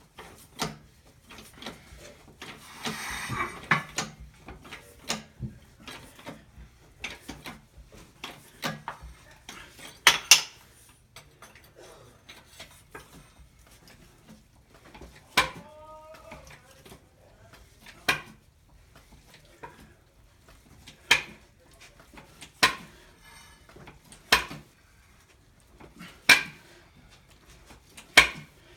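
Sharp metal clanks and knocks from steel foundation-pier jacking gear, coming every second or two while the footing is being raised. A short squeak sounds about midway.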